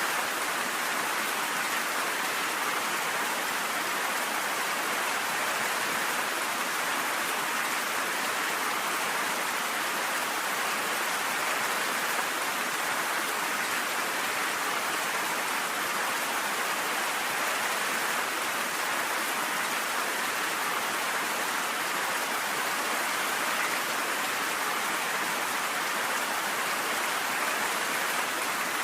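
Steady, even rainfall: a continuous hiss of rain with no thunder and no change in strength.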